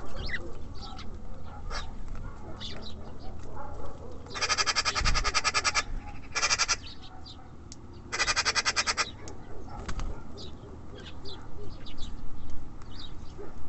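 Small songbirds at a feeder calling with short, high chirps throughout. Three louder harsh, buzzy calls come between about four and nine seconds in.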